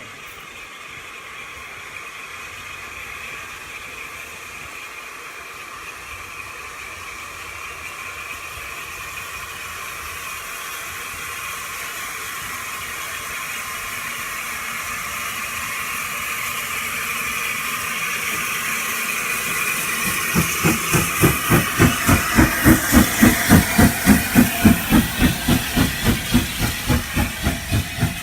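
Steam locomotive drawing closer with a steady hiss of steam that grows louder. About two-thirds of the way in its exhaust beats come in at a steady pace of about three a second, loudest as it passes and easing off near the end.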